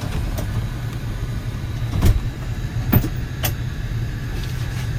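Steady low rumble of an Airbus A320 cabin on the ground, with a few sharp clunks from the cabin door being shut and latched; the two loudest come about two and three seconds in.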